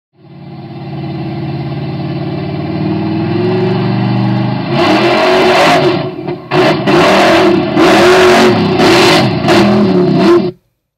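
Engine running with a steady note that grows louder, then revved hard several times in loud surges, each rising and falling in pitch. It cuts off suddenly near the end.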